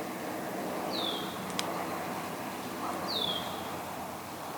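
A bird's short, falling whistled call, given twice about two seconds apart, over a steady background hiss, with one sharp click between the calls.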